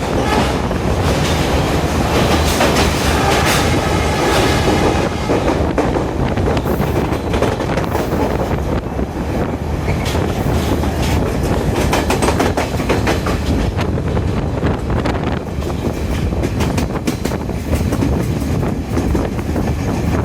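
Passenger express train set, built in China in 2019, running along the track: a loud, steady rumble of wheels on rail with repeated clicks as the wheels cross rail joints.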